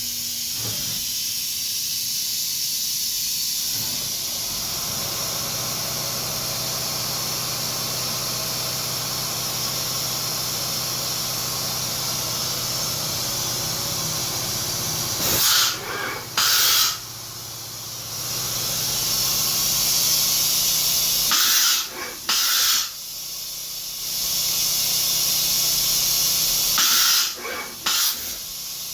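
Fanuc Robodrill a-D21L-iA5 vertical machining center running, with a steady hiss and a low machine hum that sets in about four seconds in. Three times, about six seconds apart, it gives a pair of short, loud hissing bursts.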